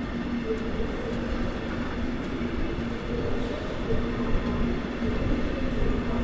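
Electric train in the station: a steady low rumble with a droning hum running through it.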